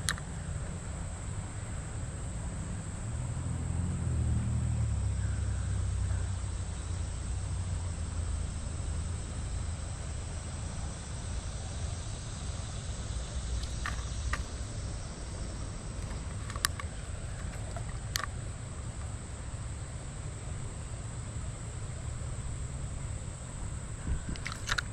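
Insects, crickets by their sound, trilling in a steady, high, unbroken chorus over a low rumble that swells a few seconds in. A few short sharp clicks come past the middle.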